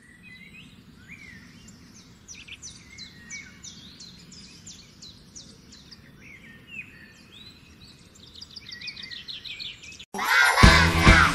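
Birds singing: series of short, high, repeated chirping notes over a low steady background hum, with a quicker run of notes about eight seconds in. Just after ten seconds the bird song stops and much louder music begins abruptly.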